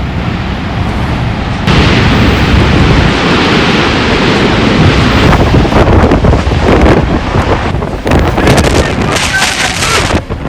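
Tornado roar: a loud, continuous rushing noise with heavy wind buffeting on the microphone. It jumps up sharply about two seconds in and grows gustier near the end.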